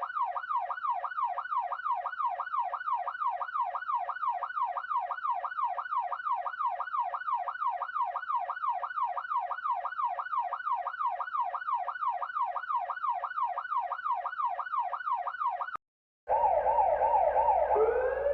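Electronic police siren in a fast yelp, its pitch sweeping up and down about three times a second, steady and unchanging. Near the end it cuts off, and after a short break another siren starts, warbling quickly and then rising in pitch as it winds up.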